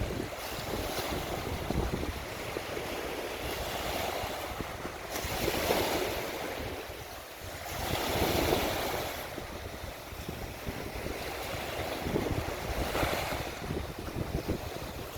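Sea waves breaking and washing ashore on a beach, surging and easing every few seconds, the biggest swells about six and eight seconds in. Wind buffets the microphone with a low rumble throughout.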